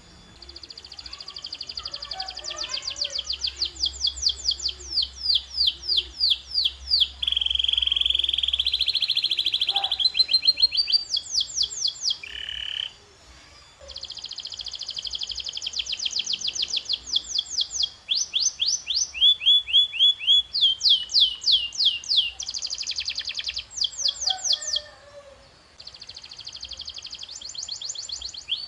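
Domestic canary singing: fast rolling trills of repeated rising and falling notes, changing from one tour to the next, with a couple of brief pauses.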